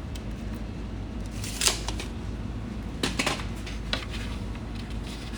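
A few sharp clicks and knocks of wooden toolbox parts and hand tools being handled on a workbench, the loudest about two seconds in and a quick cluster near the middle, over a steady low hum.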